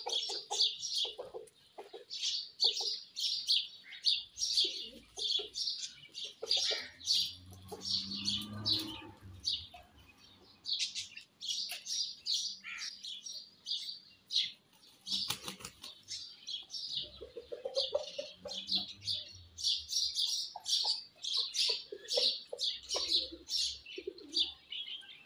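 Many small birds chirping busily and without a break, quick high chirps overlapping one another.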